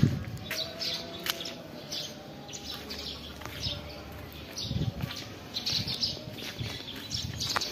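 Small birds chirping, with many short, irregular chirps throughout, over a few low dull thumps.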